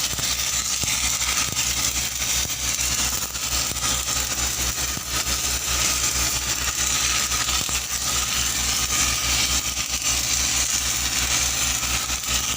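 Pipeline arc welding: a steady hissing, crackling arc over a machine's constant low drone.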